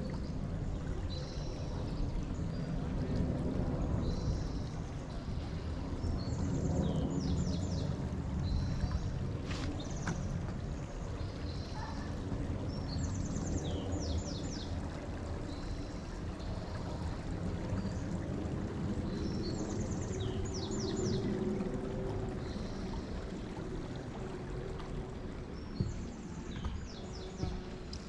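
A small bird singing a short phrase of quick high notes, repeated about every seven seconds, over a steady low rushing noise.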